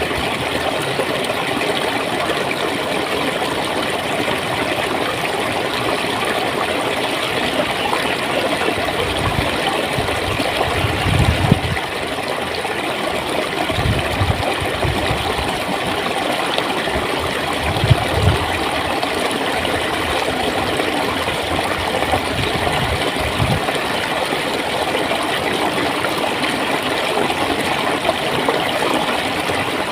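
Clear water flowing and gurgling steadily over stones in a stream, with a few brief low thumps in the middle.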